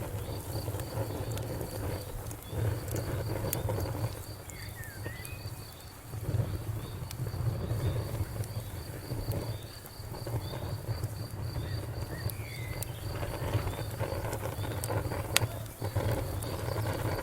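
Wood fire burning with a low rumble that swells and dips, sparse crackles and one sharp pop about 15 seconds in. An insect chirps in a high, even pulse throughout, with a few short bird-like chirps.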